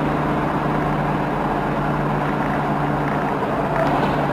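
Steady engine and road noise heard inside a moving car's cabin, with a low even hum.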